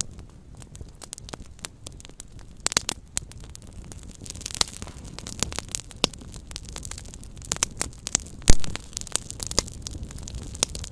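Small wood campfire burning with a low rumble and irregular crackling pops, the sharpest pop about eight and a half seconds in.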